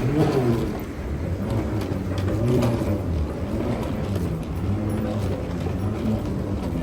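A vehicle engine running steadily, its pitch drifting up and down a little.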